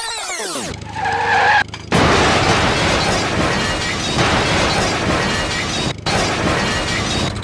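Vehicle crash sound effect: a short tone about a second in, then a long, loud skid-like hiss over a low engine hum, broken off briefly near the end.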